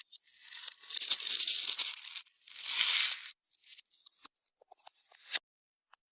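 Clear slime being stretched and pulled apart by hand, giving two long crackly, tearing-like stretches followed by scattered small clicks and pops.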